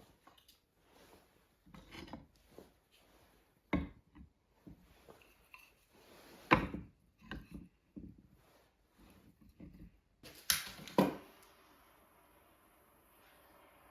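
Irregular wooden knocks and clatter in a small room, the loudest a little past halfway and a pair of sharp knocks about three-quarters of the way through; a faint steady hiss takes over near the end.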